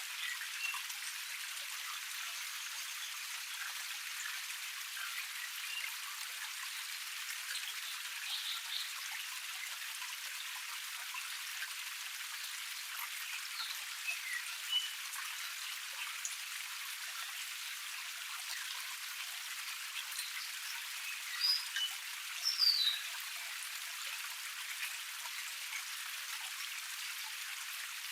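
Water of a small forest cascade running in a steady, thin hiss with no low rumble. Brief bird chirps sound now and then, the loudest a little past two-thirds of the way through.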